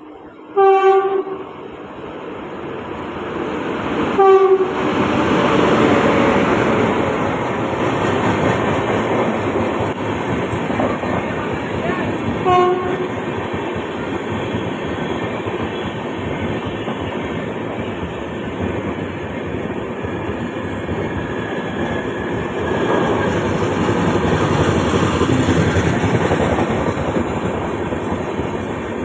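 Train passing slowly through a station without stopping, sounding its horn in three short blasts: about a second in, around four seconds in and near twelve seconds. Between them runs the steady noise of the train's wheels on the rails, building after the second blast.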